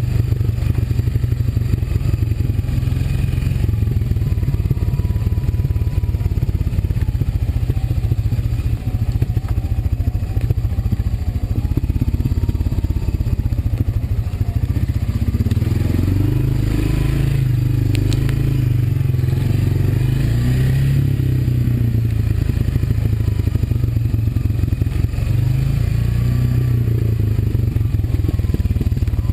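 Single-cylinder four-stroke Honda ATV engine running steadily as the quad is ridden, with rattling and scraping over the trail. Its note gets heavier and busier from about sixteen seconds in for several seconds.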